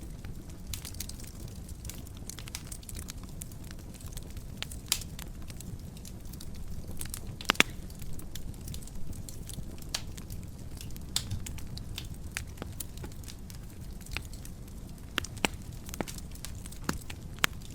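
Wood fire burning in a fireplace: a low steady rumble of flames with irregular sharp crackles and pops, a loud pair of pops about seven and a half seconds in.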